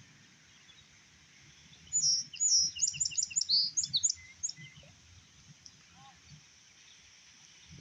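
A songbird singing a quick run of high chirps and trills for about two and a half seconds, starting about two seconds in, over faint low background noise.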